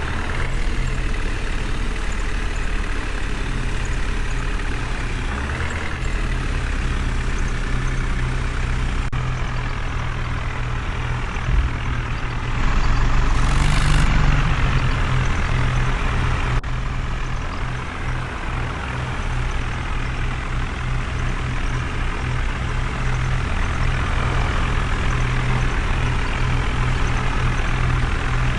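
A heavy truck-type engine running steadily, getting louder for a few seconds about halfway through, with a short hiss like an air brake about fourteen seconds in.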